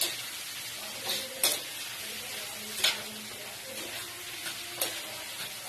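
Chopped tomatoes, onion and garlic sizzling as they sauté in coconut oil in a frying pan, being cooked down until the tomatoes release their sauce. A spatula stirs through them with three sharp scrapes against the pan.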